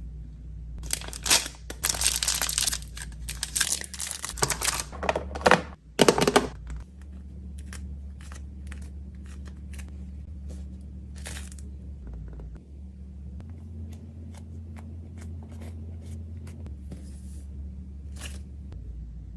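Plastic packaging being crinkled and torn for about six seconds, with a few louder rips, then only occasional light clicks and taps over a steady low hum.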